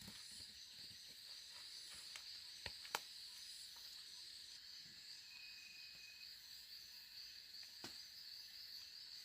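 Insects chirring steadily in a high, even trill, with a few sharp clicks about three seconds in and again near the end.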